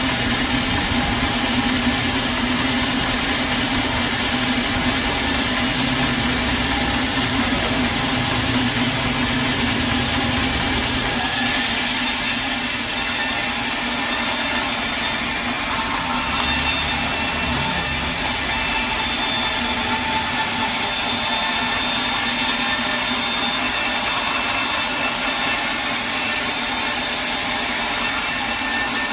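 Sawmill blade cutting lengthwise through a large log over a steady machine hum. About 11 s in, the cut turns brighter and higher-pitched, then runs on evenly.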